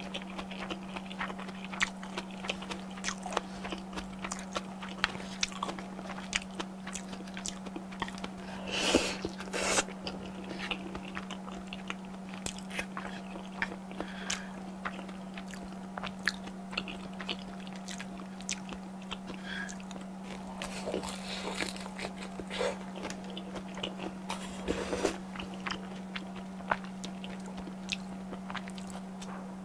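Close-miked chewing and crunching of batter-fried shrimp, with many small crackly bites and a few louder ones, over a steady low hum.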